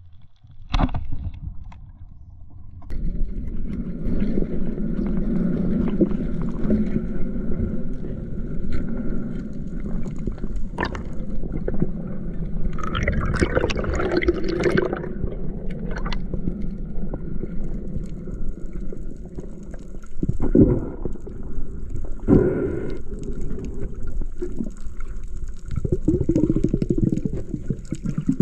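Sea water sloshing and gurgling close to the microphone, with a few louder surges of bubbling and scattered knocks.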